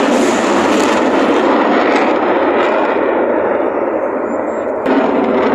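Military jet aircraft flying past, a loud steady rush of engine noise that jumps louder near the end.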